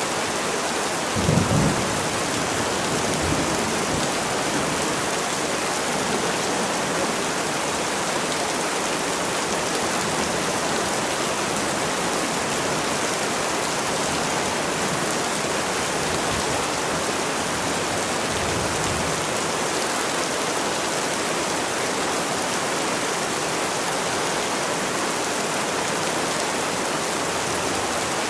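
Steady rain falling, with a rumble of thunder about a second in and fainter low rumbles later.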